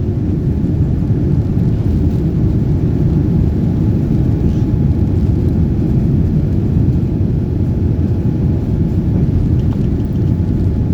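Steady low roar inside the economy cabin of a Boeing 787-9 in flight: its Rolls-Royce Trent 1000 engines and the rush of air along the fuselage, heard from a window seat.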